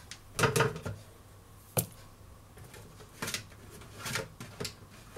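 Scattered light knocks and clicks of hands handling raw chicken pieces and bowls while coating them, with a sharp click about two seconds in.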